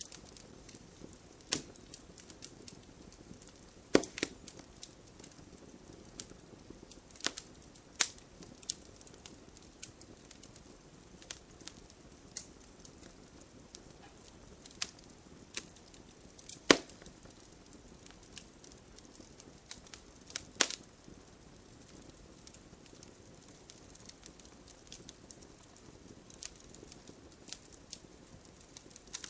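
Wood fire crackling in a fireplace: irregular sharp pops and snaps over a low steady hiss, with a few louder cracks about 4, 8, 17 and 20 seconds in.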